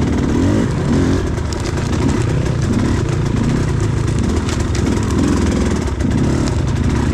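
Enduro motorcycle engine revving up and down repeatedly.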